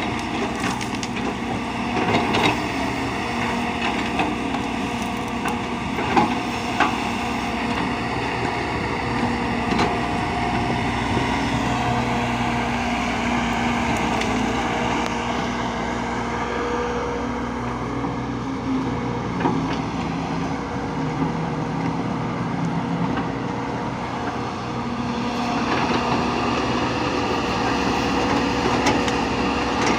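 A heavy machine's engine running steadily, its pitch shifting a little now and then, with scattered knocks and clatter.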